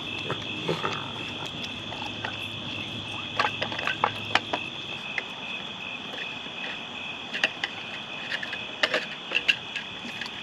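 Irregular clusters of light taps and clinks as a raccoon paws at a toy xylophone, about three seconds in and again near the end. Under them runs a steady high-pitched night chorus.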